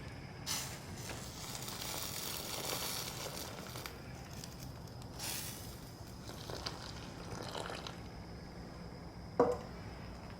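Rustling and crinkling handling noises over a faint steady background, with a sharp knock near the end.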